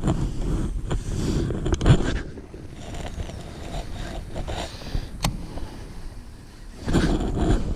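Wind buffeting the camera microphone over water moving against a kayak, an uneven rumble that swells at the start and again near the end. Two sharp clicks, about two and five seconds in.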